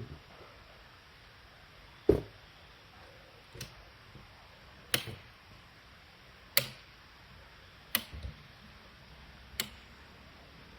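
A series of six short, sharp knocks, evenly spaced about a second and a half apart, against a quiet background; the first knock is the loudest.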